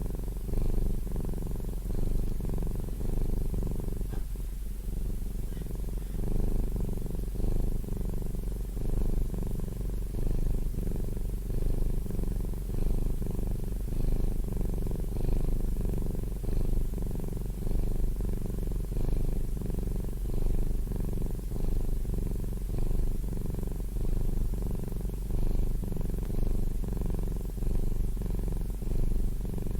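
A domestic cat purring steadily, the low rapid purr swelling and easing about every two seconds.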